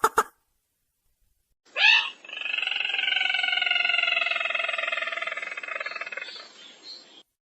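Lure recording of sintar merah bird calls: a rapid run of ringing notes ends just as it begins, then after a short pause one long, rough, rattling call that slowly falls in pitch and fades over about five seconds.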